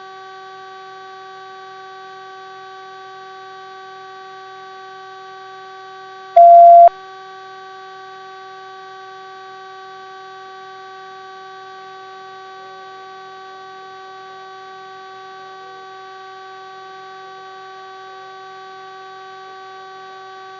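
Steady hum of several tones on a police helicopter's cockpit audio feed, with one loud single-pitch beep lasting about half a second, about six seconds in.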